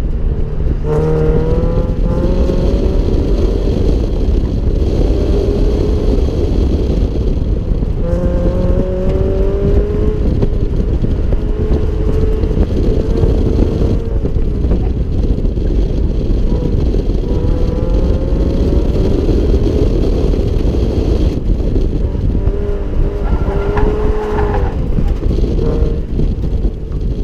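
Subaru BRZ's 2.0-litre flat-four engine pulling hard and easing off again and again, its pitch rising with each pull and dropping at each lift or shift. A dense low rumble runs underneath.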